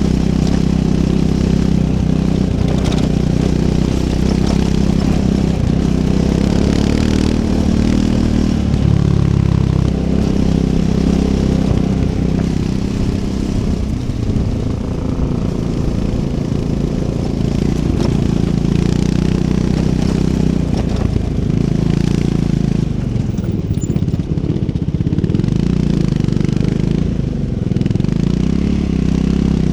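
Triumph Scrambler 400 X's single-cylinder engine running under load off-road, its pitch rising and falling several times as the throttle opens and closes.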